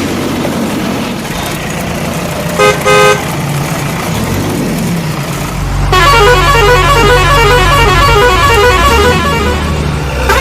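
Vehicle engine rumbling with two short horn honks about two and a half seconds in. About six seconds in, a louder, deeper drone comes in with a fast, repeating warbling sound over it.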